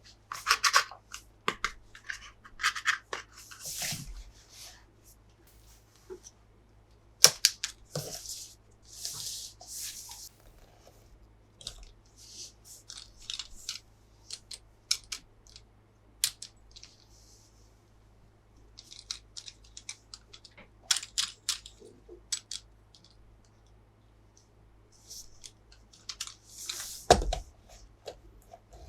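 Toy packaging being opened and handled by hand: intermittent rustling and tearing with sharp clicks and taps. A louder knock comes near the end.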